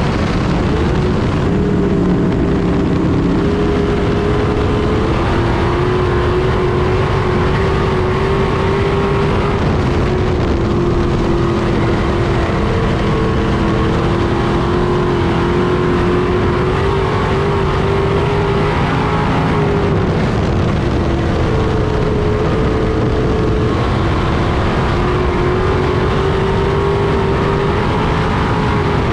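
Street stock race car engine running hard during a race, its pitch rising and falling every few seconds as the throttle comes on and off.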